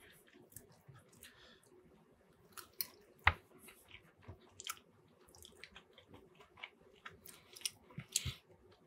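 Close-miked chewing of a mouthful of poutine: soft, wet mouth clicks and smacks, with one louder click a little over three seconds in.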